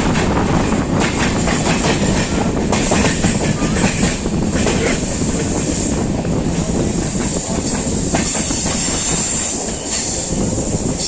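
Passenger train running along the track, its wheels clattering irregularly over rail joints under a steady rumble, with a thin high-pitched ring from the wheels.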